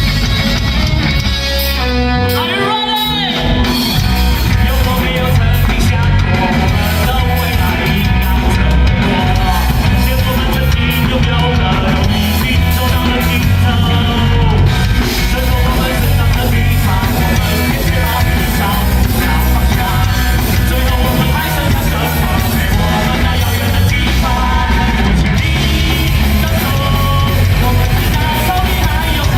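A rock band playing live, with drums, guitar and a singer. There is a rising sweep in pitch about two to three seconds in.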